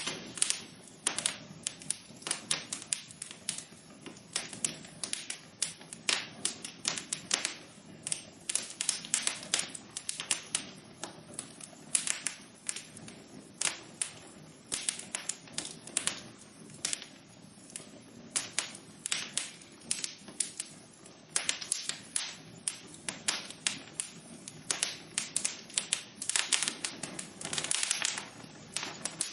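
Wood fire burning in a fireplace, crackling with many quick, irregular pops and snaps over a soft steady hiss.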